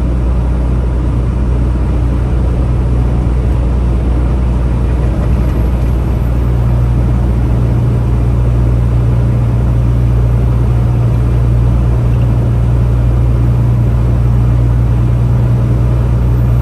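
Steady low drone of a Peterbilt 579 semi-truck cruising at highway speed, heard from inside the cab: diesel engine hum and road noise.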